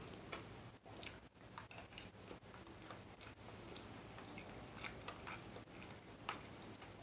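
A person faintly chewing a mouthful of pad thai noodles, with a few small scattered clicks.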